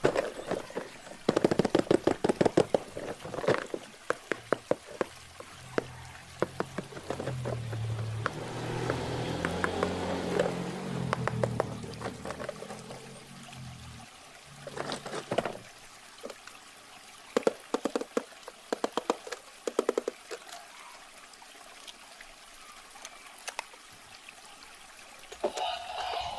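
Water pouring and trickling, with many sharp clicks and crackles from packaging being handled.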